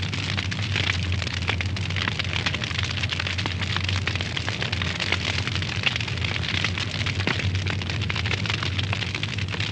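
Wood fire burning in a fireplace, with dense crackling and popping over a steady low hum.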